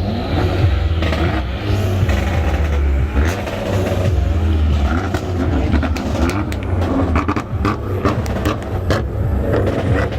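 Modified car's engine held at high revs on a two-step launch limiter, a deep steady drone broken by rapid sharp exhaust pops and cracks that come thicker in the second half.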